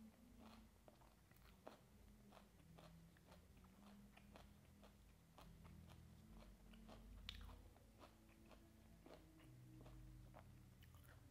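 Faint, close-up chewing of a mouthful of raw beef and shredded banana flower salad with the mouth closed: many small crunchy clicks a few times a second, with one louder crunch about seven seconds in.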